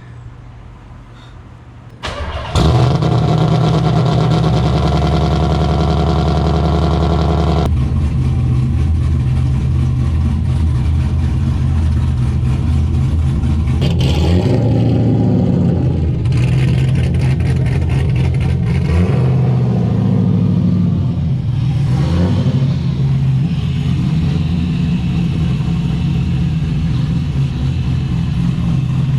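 LS1 V8 swapped into a Nissan 240SX S13 fires about two seconds in after a brief crank. It runs at a raised idle for about five seconds, then settles lower and keeps running, its note shifting a few times.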